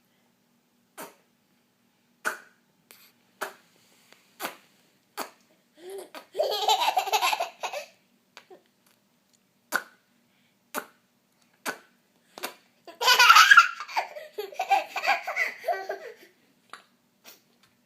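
A young child making short mouth pops or clicks, roughly one a second, broken by two bouts of laughter. The second bout of laughter is the loudest.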